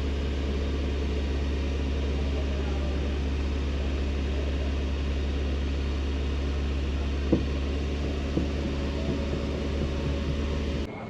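Toyota Corolla XLi engine idling steadily, with a sharp click about seven seconds in. The hum cuts off abruptly near the end.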